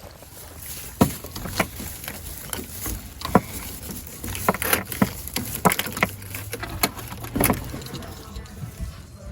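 Footsteps with knocks from handling, sharp irregular thuds roughly every half second or so, over a low rumble.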